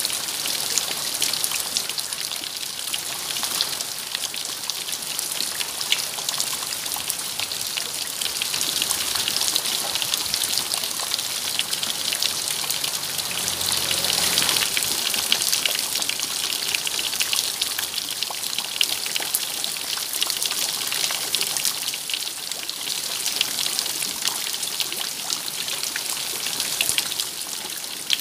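Steady rain, with dense individual drops hitting a surface, swelling slightly about halfway through.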